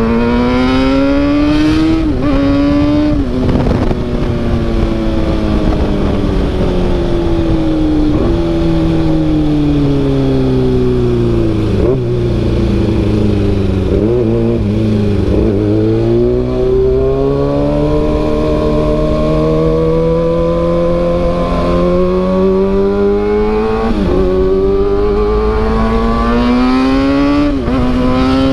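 Kawasaki ZX-6R inline-four through an SC-Project CRT carbon exhaust, pulling hard with a rising note and sharp drops at each upshift. It then winds down through the gears to a low rumble about halfway, and pulls up through the gears again toward the end.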